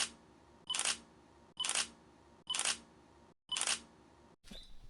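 Camera shutter firing five times, about once a second.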